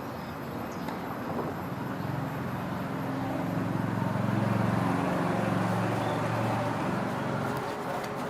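An engine running with a rapid low pulsing, growing louder from about two seconds in and easing off near the end.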